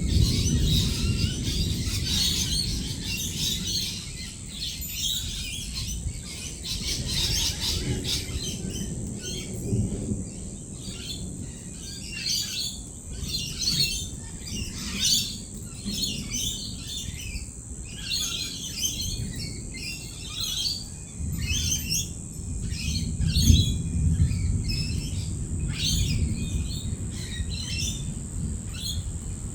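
A flock of lorikeets chattering with many short, high chirps and squawks. A low rumble sits underneath, loudest near the start and again about 23 seconds in, and a steady high-pitched tone runs throughout.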